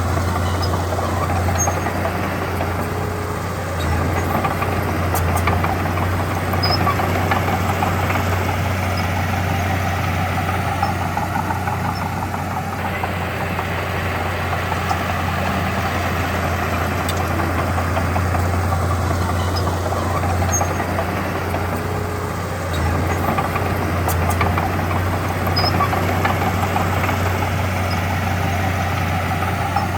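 Diesel engine of heavy earthmoving machinery running steadily, with a low rumble that dips briefly and swells again a few times.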